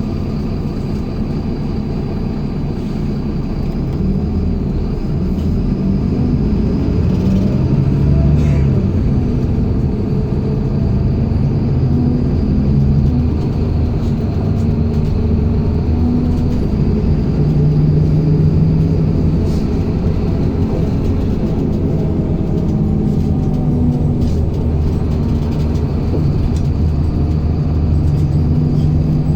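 MAZ-107.485 city bus driving, heard from inside the passenger cabin: a steady low engine and road rumble, growing louder about four seconds in as the engine's pitch shifts under way.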